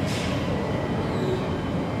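Queensland Rail electric passenger train at the platform: a steady rumble with faint high-pitched whines over it.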